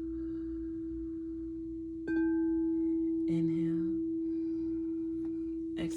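A struck metal sound-healing instrument holding one steady ringing tone, struck again about two seconds in, with higher overtones that fade over a second or so while the main tone rings on.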